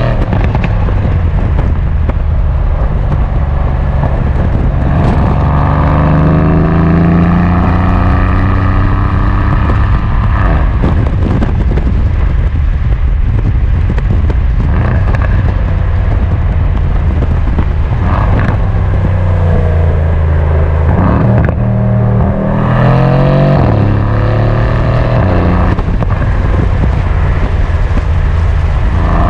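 Mercedes-AMG C63 S coupe's twin-turbo V8 revving up and falling back again and again while driven, with short sharp pops and crackles from the exhaust here and there.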